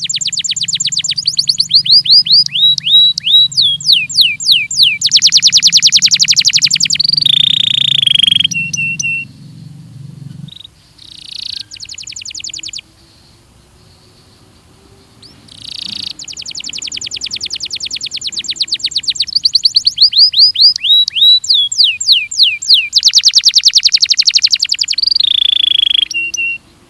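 Belgian canary singing: long phrases of fast rolling trills and rapid repeated chirps and glides. The song breaks off for a few seconds midway, with only scattered notes, then a second long phrase follows.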